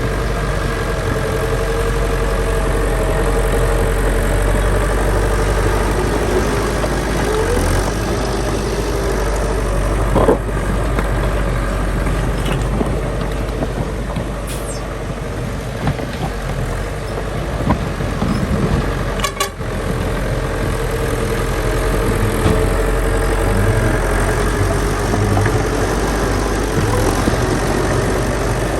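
Heavy diesel construction machinery running steadily. A steady whine fades out partway through and returns, and a sharp knock comes about ten seconds in and again near the middle.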